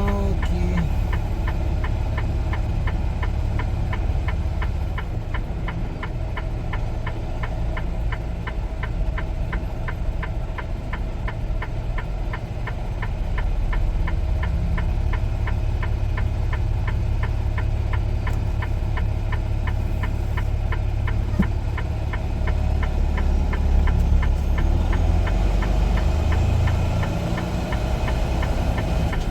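Semi truck's diesel engine running at low speed, heard from inside the cab, with a fast, even ticking over its steady rumble. The rumble grows a little louder a few seconds before the end.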